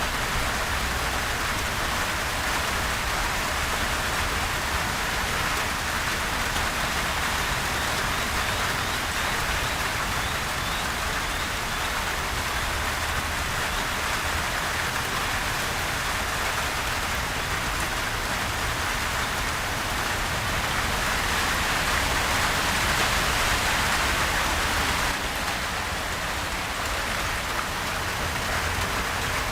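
Steady rain falling and pattering on surfaces, a dense even hiss of drops with no thunder; it swells slightly a little past the middle.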